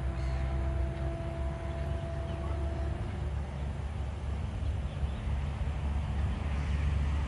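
Hatia Superfast Express train running with a steady low rumble. A faint steady tone sounds over it for about the first three seconds.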